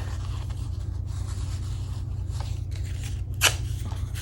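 Gel-printed paper being handled and torn by hand: soft scattered rustles with one sharp, short rip about three and a half seconds in, over a steady low hum.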